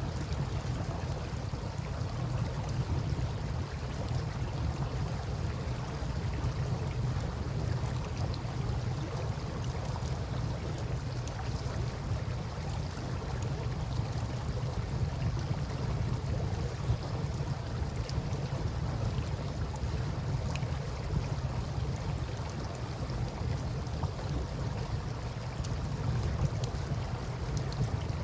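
Steady rush of river water with a deep, even rumble, and scattered small crackles and pops from a wood campfire.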